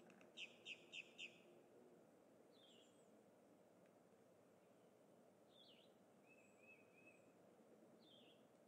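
Wild birds calling: a quick run of four short high notes about a second in, then a few scattered short chirps and a brief trill, over a faint steady outdoor hiss.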